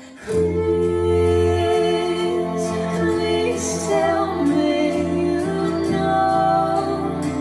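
Recorded music with a singing voice, played through a pair of Monitor Audio Platinum 100 3G bookshelf loudspeakers and picked up by a phone in the room. Sustained low notes hold under the voice, and a new phrase comes in just after a brief dip at the start.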